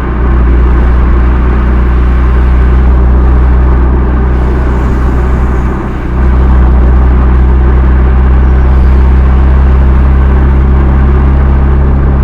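BMW M2 Competition's twin-turbo inline-six exhaust, stock muffler, running at a steady engine speed with a deep, even drone; it drops briefly about halfway through and comes straight back. The sound is slightly distorted by an overloaded microphone.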